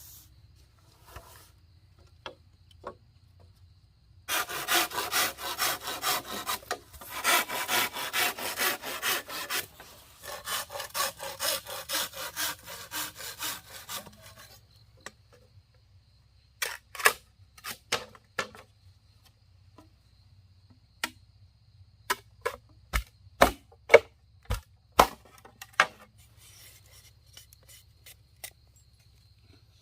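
Wood being sawn by hand in quick back-and-forth rasping strokes for about ten seconds, followed by a run of sharp knocks and taps on wood, the loudest a few seconds before the end.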